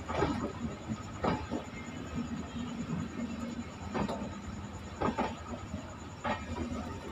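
Railway coaches rolling slowly past at track level: a steady rumble of steel wheels and bogies on the rail, with a sharp clack five times at uneven intervals as wheels pass.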